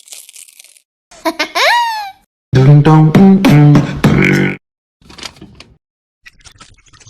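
Edited-in comic sound effect and vocal-style music: a pitched swoop up and down about a second in, then about two seconds of loud held notes that step in pitch, cutting off sharply, with faint brief rustles before and after.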